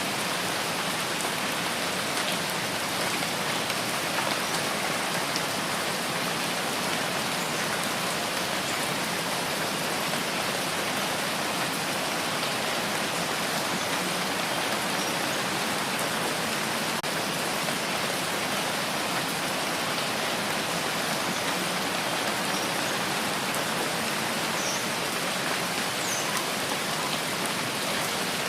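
Steady rain falling, an even hiss with scattered drops pattering on a hard surface.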